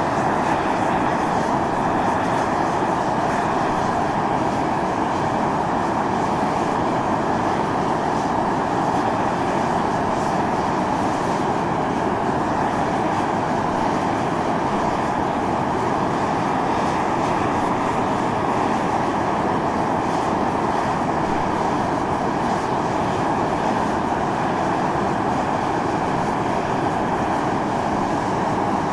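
Volcanic fumarole venting steam and gas under pressure: a loud, unbroken jetting hiss that holds steady throughout.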